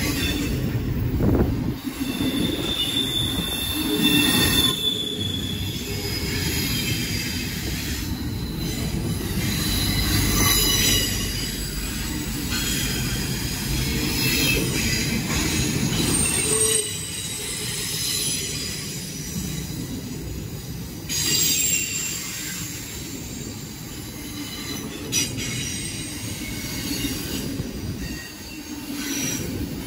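CSX intermodal freight train rolling past, a steady rumble of the cars with high-pitched wheel squeal that comes and goes.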